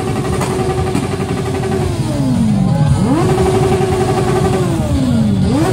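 Motorcycle engine held at a steady high rev, with the throttle backed off about two seconds in so the revs fall away and then snap back up, and again near the end.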